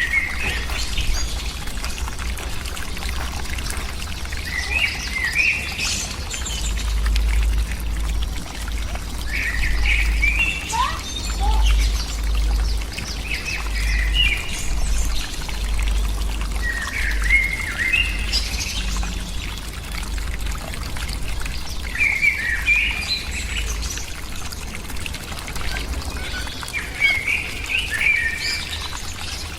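Bird chirping in short clustered bursts every few seconds over a steady hiss and a low rumble.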